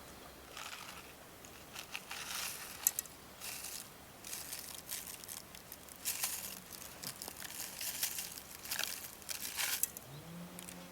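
Irregular rustling and crinkling, a string of short bursts, like packaging or a bag being handled.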